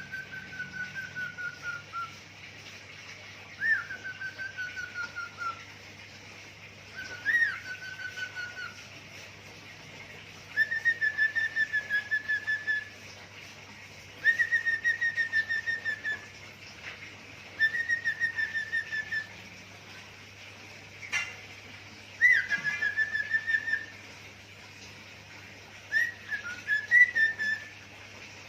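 Pet cockatiel whistling a short mimicked phrase over and over, about eight times with short pauses between them: each phrase is a quick upward note followed by a fast pulsing trill lasting about two seconds.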